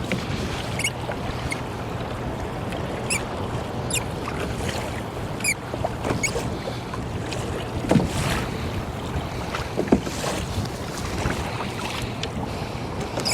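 Water sloshing and slapping against a kayak hull in choppy sea, with wind noise on the microphone; two louder slaps come about eight and ten seconds in.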